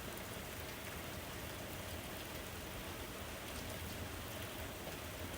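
Steady rain falling, a soft even hiss with no distinct drops standing out.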